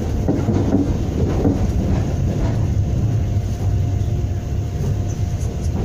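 Steady low rumble of a moving passenger train coach running on the rails, heard from inside the carriage, with a faint steady whine above it.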